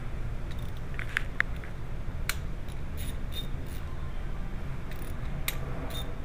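Volkswagen engine idling with a steady low rumble while misfiring on cylinder 2, the misfire caused by a stuck-open fuel injector. About a dozen irregular sharp clicks are scattered through it.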